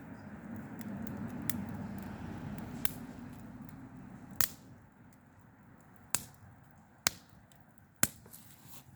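A few sharp snaps or clicks, four loud ones spread over the second half, over a low rumble that fades out about halfway.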